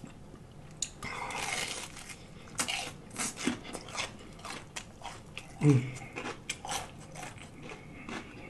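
Close-up crunching and chewing of fried catfish with a crisp breaded crust, with many small wet mouth clicks and smacks; a denser crunchy stretch comes about a second in. A short low hum from the eater a little past halfway is the loudest moment.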